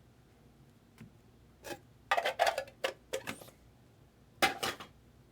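Short clicks and scrapes from the trading-card box and its contents being handled: a quick run of them about two seconds in, then another pair near the end.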